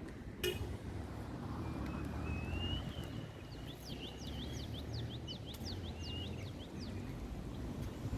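A bird singing: a drawn-out high whistle, then a quick run of short downward-sweeping notes, about four a second, over a low rumble of wind on the microphone.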